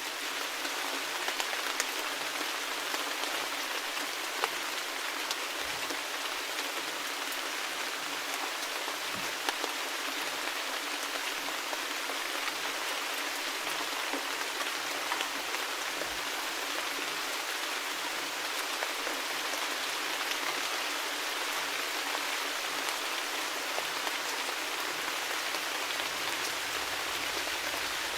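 Steady rain falling: an even hiss with many small drop taps scattered through it.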